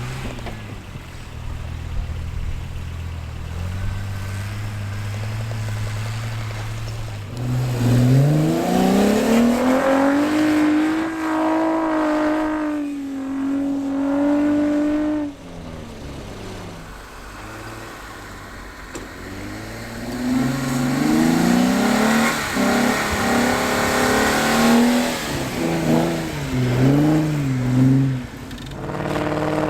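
Pickup truck engine revving hard under load as the truck ploughs through deep powder snow. The revs climb steeply about eight seconds in, hold high for several seconds, then drop. They build again later and rise and fall several times near the end.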